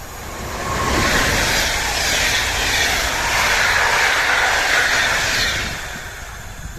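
A train passing at speed: the rush of wheels on rails swells about a second in, holds for several seconds, then fades away.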